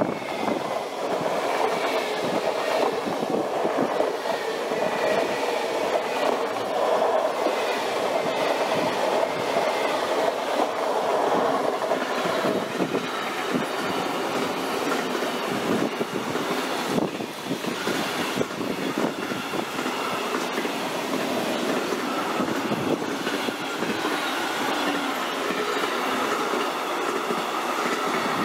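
Electric train running past on the main line: a steady rumble and rattle of wheels on rail that lasts nearly half a minute, dipping briefly about 17 seconds in.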